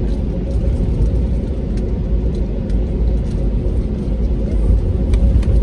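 Steady low rumble inside the cabin of an Airbus A320-271N airliner on the ground, with a faint steady hum and a few light clicks.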